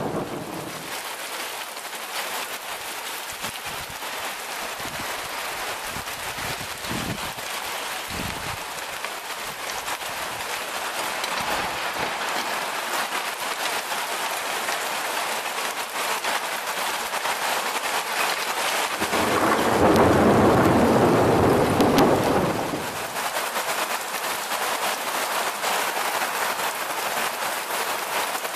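Heavy thunderstorm rain pouring steadily, with a peal of thunder rumbling for about three seconds some two-thirds of the way through.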